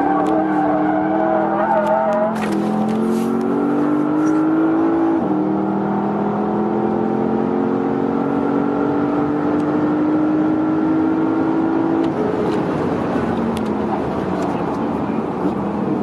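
2017 Porsche Panamera Turbo's 4.0-litre twin-turbo V8 accelerating hard. Its pitch climbs, drops sharply at a gear change about five seconds in, climbs steadily again, then falls away about twelve seconds in.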